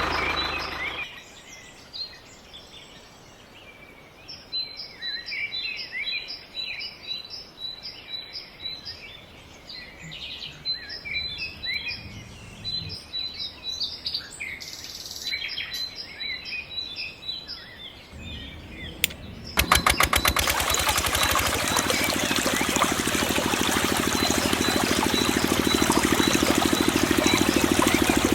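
Birds chirping in short repeated calls for most of the time. About twenty seconds in, a small engine, the mini water pump's motor, starts suddenly and runs steadily with a fast, even beat.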